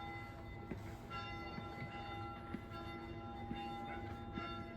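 Church bell rung repeatedly, its tones struck afresh about every second and ringing on between strokes: the wishing bell in the Bled Island church being pulled by visitors.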